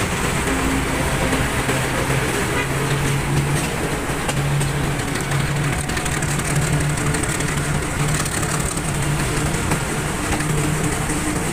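Passenger train running along the track, heard from an open coach window: a steady rumble and rattle of wheels and coaches mixed with wind noise, with a low hum that comes and goes.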